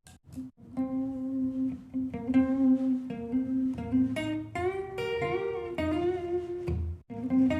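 Guitar playing a melody of single plucked notes, each ringing on, with a few notes sliding in pitch. It breaks off briefly about half a second in and again near the end.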